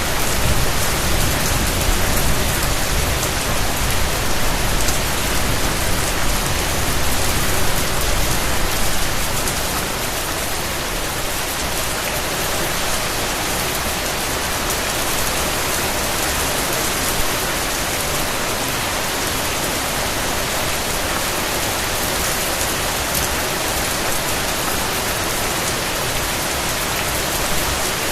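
Steady rain falling in an even hiss, with a low rumble underneath that eases off about ten seconds in.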